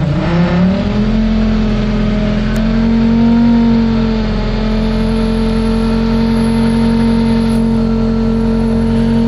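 Lada Niva's four-cylinder petrol engine catching on a hard second start attempt after a day at −35 °C. Its revs rise quickly in the first second, then it runs steadily, with a slight rise and dip in revs about four seconds in.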